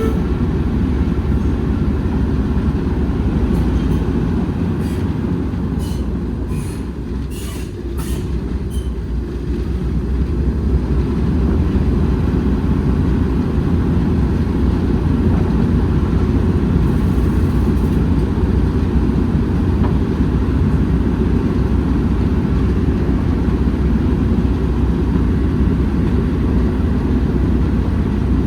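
Heritage railway train on the move: a steady low rumble of running along the track, with a few sharp clicks and a brief lull about a quarter of the way in.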